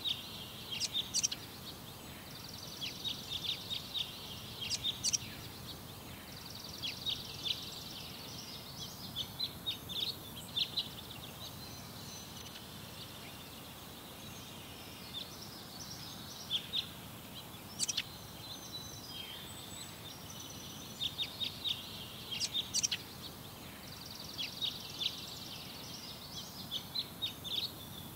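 Small songbird singing: phrases of high chirps and rapid trills come every few seconds, over a steady low background hiss.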